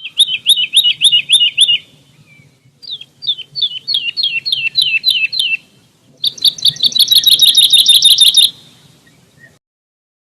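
A songbird singing three trilled phrases. Each phrase is a quick run of repeated high, down-slurred notes. The third phrase, starting about six seconds in, is faster and denser.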